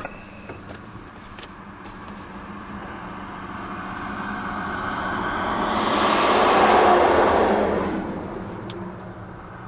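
A vehicle passing by: its noise swells, peaks about two-thirds of the way through, then fades away, over a steady low hum.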